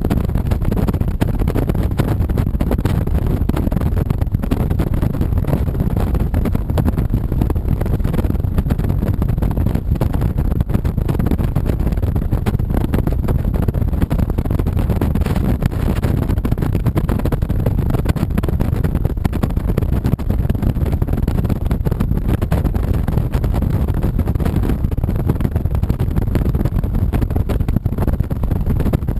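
2007 Honda VTX 1300C's V-twin engine running while the bike is ridden, mixed with heavy wind and road noise on the camera microphone, loud and steady.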